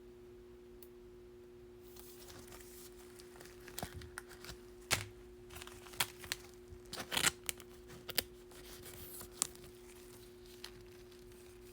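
Foil wrapper of a Bowman baseball card pack being torn open and crinkled, a run of irregular crackles and rustles, loudest a little past the middle, over a steady low electrical hum.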